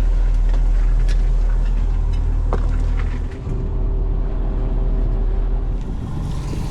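Fishing boat's engine running steadily, with a deep hum and a steady note above it; the sound dips and shifts briefly about three seconds in. A few light clicks sound over it.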